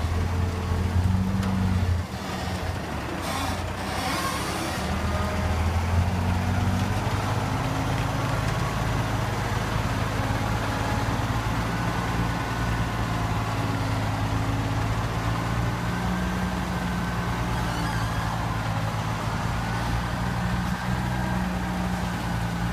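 Ten-wheel dump truck's diesel engine running steadily, its pitch shifting a few times, with a short hiss of air about three seconds in.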